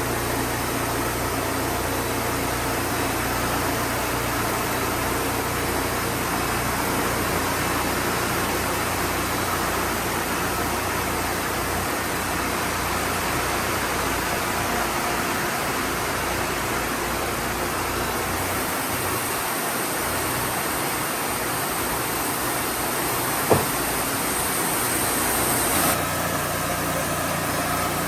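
Wood-Mizer portable band sawmill running steadily while sawing pine posts, its engine a steady drone. There is a sharp click about two-thirds of the way through, and a higher hiss builds over several seconds and cuts off suddenly near the end.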